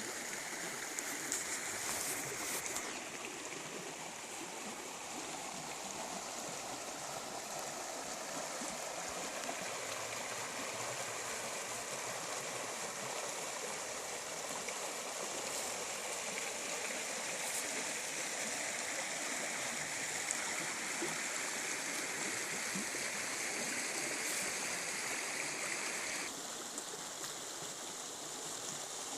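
Water of a stream running steadily, an even rush with no pauses.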